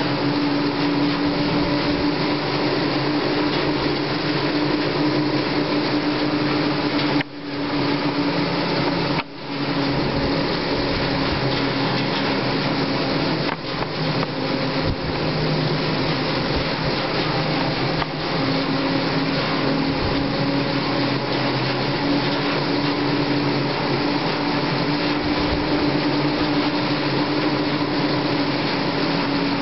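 Steady mechanical whir with a low hum, typical of the Bușteni–Babele cable car's moving ropes running over a pylon's sheave wheels. It dips out briefly twice, about seven and nine seconds in.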